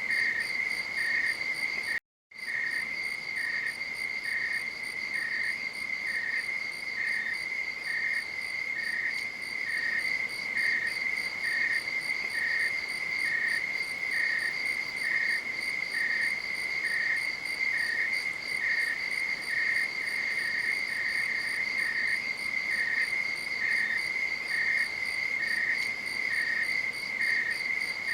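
Night insects chorusing: a steady high trill runs alongside a second insect chirping regularly about twice a second. Both cut out completely for a moment about two seconds in.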